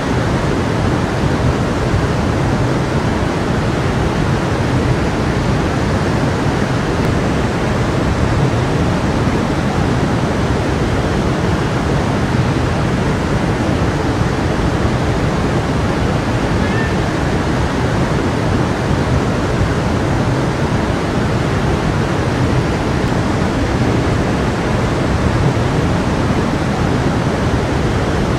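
A stream of running water flowing steadily in an even, unbroken rush.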